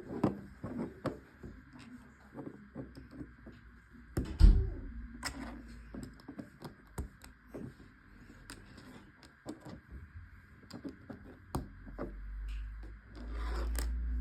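Handling noise of plastic Lego parts: scattered small clicks and knocks, with one heavy thump about four and a half seconds in and a low rumble starting near the end.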